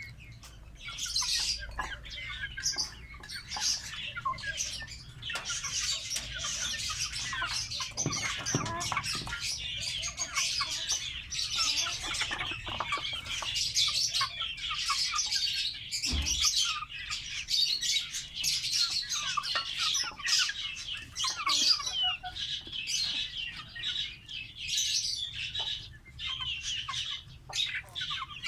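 A flock of caged lovebirds chirping and chattering continuously, with many short, high, overlapping calls.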